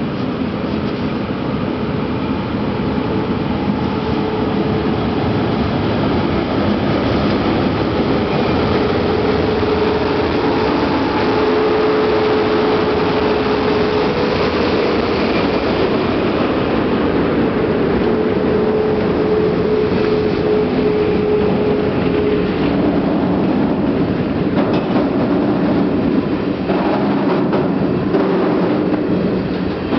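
ET42 twin-section electric freight locomotive passing close by with a train of gas tank wagons: a steady rumble of wheels on rail with a humming tone through the first two-thirds, then the tank wagons rolling past with rhythmic clacks over the rail joints.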